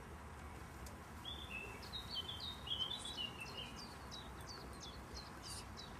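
A bird chirping: from about a second in, a quick run of short high notes, then a steady series of short falling chirps, two or three a second. Underneath is a faint steady low background rumble.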